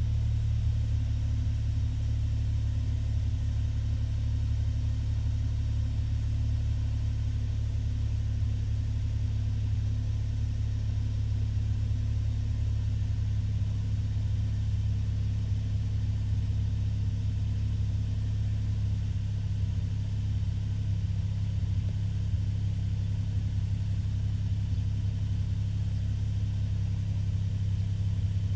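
Suzuki Jimny JB64's 660 cc turbocharged three-cylinder engine idling steadily at about 1,000 rpm, heard from inside the cabin. The engine is still warming up, its coolant at about 45 °C.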